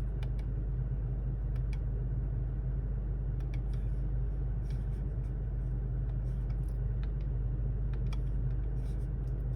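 Steady low drone of a 2023 Toyota Tacoma with its V6 engine, heard from inside the cab, with a few faint clicks scattered through it.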